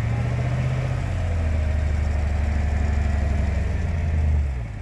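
Jeep Wrangler engine idling steadily with a low hum, dipping briefly near the end.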